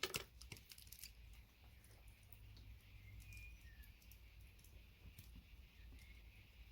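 Near silence with a few faint clicks of a VGA connector's small metal and plastic parts being handled with pliers, mostly in the first half-second.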